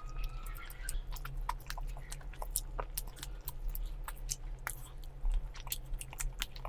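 Close-miked chewing, with many short wet mouth clicks and smacks at an irregular pace, over a steady low hum.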